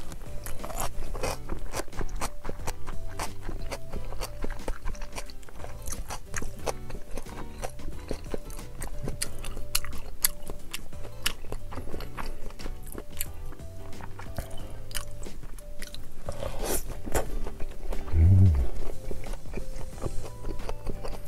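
Background music with sustained low notes over a person chewing sushi, with many small wet mouth clicks. A brief low hum comes near the end.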